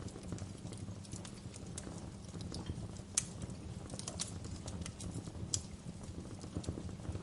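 Wood fire crackling in a fireplace: irregular pops and snaps of burning wood, with a few louder snaps a few seconds in, over a low steady rumble.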